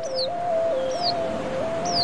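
Bird chirping: short high calls, each a quick downward sweep, about once a second, over a steady tone that steps back and forth between two pitches.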